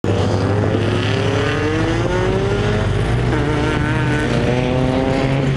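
Car engine accelerating away hard, its pitch rising, dropping at a gear change about three seconds in, then rising again, over another engine idling steadily close by.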